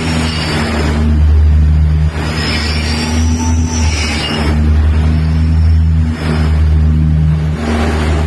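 A steady low engine-like drone with surges of rushing noise about every two seconds, each carrying a faint high whine that rises and falls.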